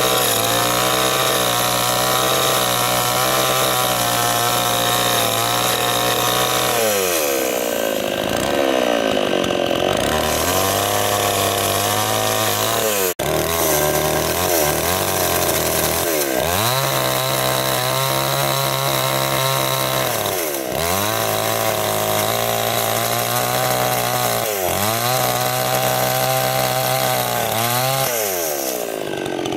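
Chainsaw running hard and cutting into wood, its engine pitch sagging and climbing back several times as the cut loads and frees it. There is a brief break about thirteen seconds in.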